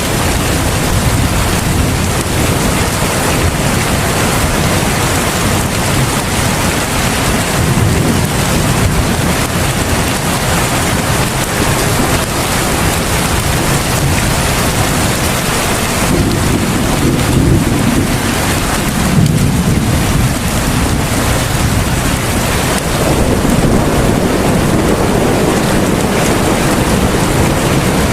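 Heavy rain falling steadily: a dense, even hiss, with deeper low swells a few times.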